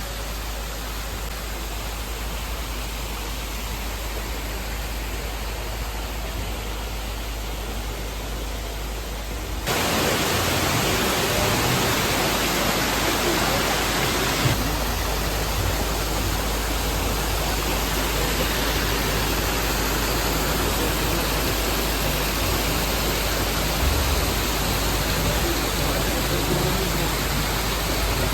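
Steady rushing noise with no distinct events, which gets louder and brighter about ten seconds in.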